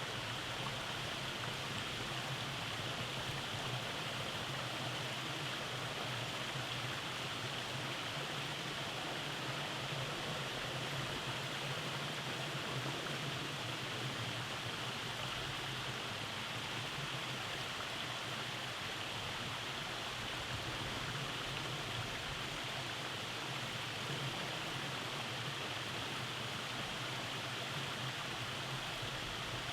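Rainforest stream running over cascades: a steady, even rush of flowing water with no breaks.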